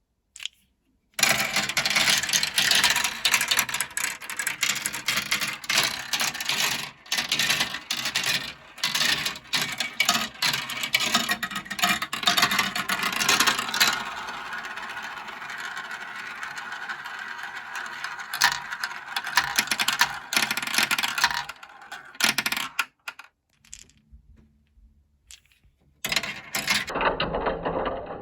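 Glass marbles rolling and clattering down a plastic marble run track in a dense stream of small clicks. The clicking starts about a second in, turns into a steadier rolling rattle partway through, drops almost to nothing for a few seconds near the end, then starts again.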